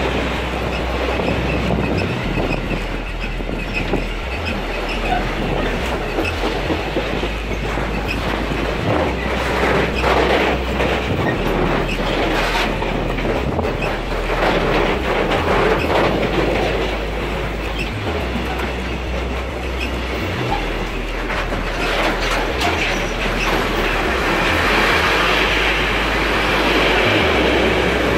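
Container freight train of flat wagons rolling past at close range: a steady rumble of steel wheels on the rails, with wheels clicking over rail joints.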